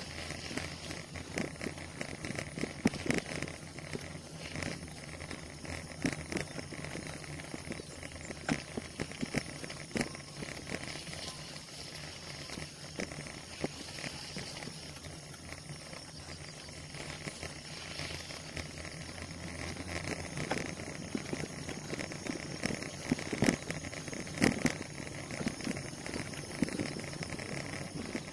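Bicycle being ridden over a rough, muddy road: steady tyre and wind noise with frequent irregular clicks and rattles from the bike.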